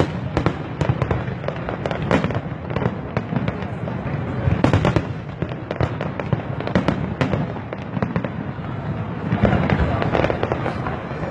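Fireworks display: a dense, continuous barrage of bangs and crackling bursts, the loudest cracks about two and five seconds in.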